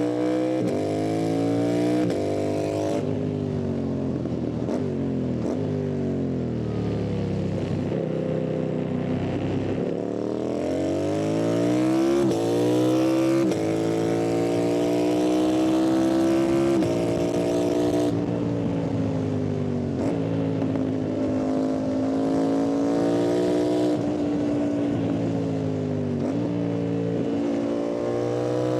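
Yamaha MT-07's parallel-twin engine and exhaust under hard riding: the pitch climbs as it revs, drops back with each gear change, and rises again several times, holding a fairly steady pitch for a while in the middle.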